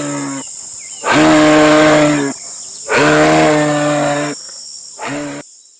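Moose calling: four low, drawn-out, moaning calls, two of them long, the last one short near the end.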